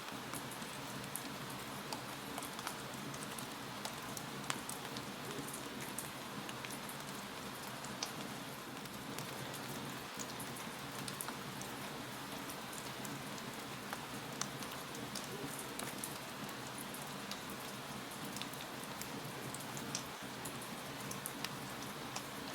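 Wood fire crackling in a fireplace: a steady hiss with scattered small pops and snaps, a few sharper pops standing out.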